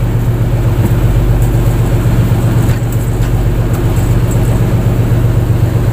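Fishing boat's engine running steadily, a loud, even low hum with no change in speed.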